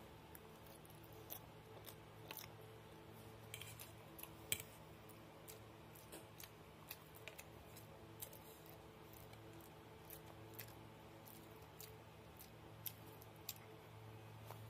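Faint close-up eating sounds: scattered soft mouth clicks and smacks of chewing spaghetti carbonara and a bread roll, over a low steady hum.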